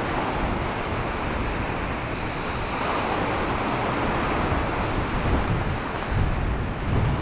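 Sea surf washing steadily, with wind buffeting the microphone in a few low gusts near the end.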